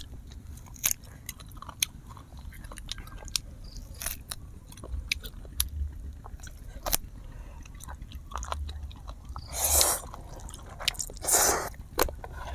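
Close-miked chewing and biting of grilled duck and instant noodles: irregular wet clicks and small crunches, with two louder breathy bursts near the end.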